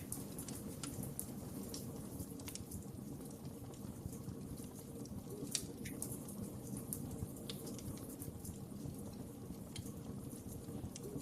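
Fire in a fireplace crackling: a steady low rush of flames with scattered sharp pops, the loudest about five and a half seconds in.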